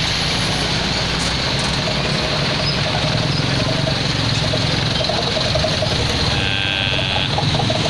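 Road traffic with a large vehicle's engine running steadily. A brief high steady tone sounds about six and a half seconds in.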